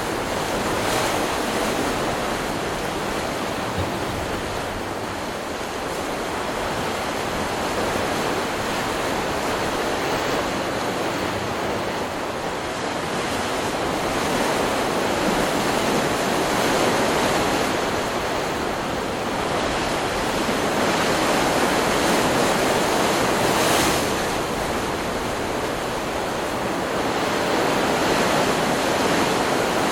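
Stock recording of ocean surf: waves breaking and washing in as a continuous rush that swells and eases every several seconds.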